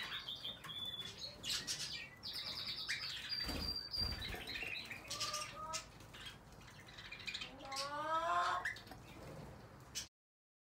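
Several aviary birds chirping and calling: short high whistled notes and chirps, a brief low knock a few seconds in, and a louder, harsher rising call near the end. The sound cuts off suddenly just before the end.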